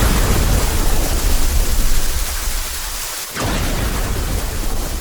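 Heavy rain falling steadily while thunder rumbles: a clap that has just broken carries a low rumble for about two seconds, and a second thunderclap cracks about three and a half seconds in.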